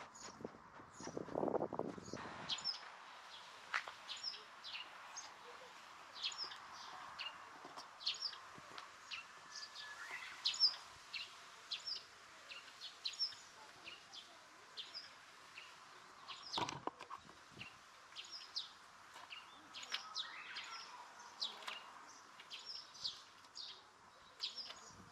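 Small birds chirping, short high chirps coming one or two a second throughout. In the first two seconds a cat's fur brushes across the microphone with a loud rustle, and a single sharp knock comes about two-thirds of the way through.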